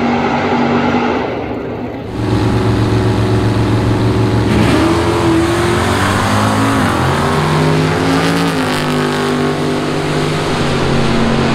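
Car engine running and revving, its pitch rising and falling around the middle and stepping up and down after.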